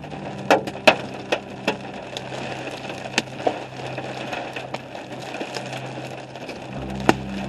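Hailstones striking a vehicle: irregular sharp cracks, a few every second, over a steady rush of wind-driven rain.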